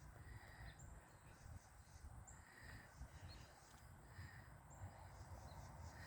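Near silence outdoors: a faint low rumble of wind on the microphone, with a few very faint short high chirps every second or two.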